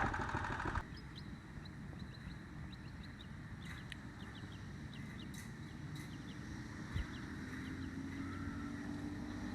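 Small engines of a vintage minibike and a go-kart racing off, loud for the first second and then faint and distant, one engine's pitch slowly rising near the end. Birds chirp repeatedly over it.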